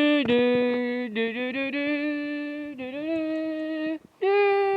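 A person humming a wordless tune in long held notes that step up and down, with a short breath about four seconds in before the next note.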